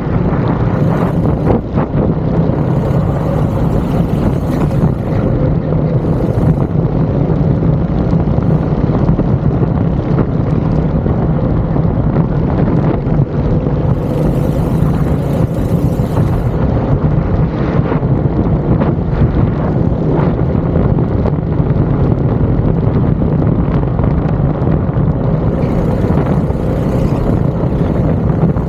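Go-kart engine running steadily under load at speed, with wind buffeting the microphone in gusts a few times.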